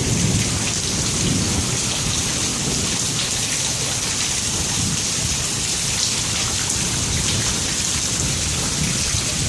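Heavy rain pouring steadily, a dense hiss, with a low rumble of thunder underneath that is strongest in the first second.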